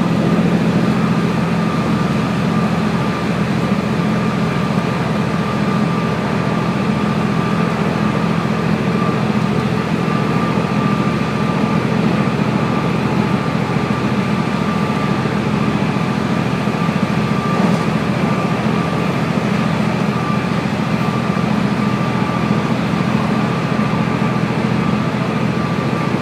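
Steady running noise of a Kiha 48 diesel railcar heard on board: an even low engine drone and rolling noise, with a thin steady whine above it.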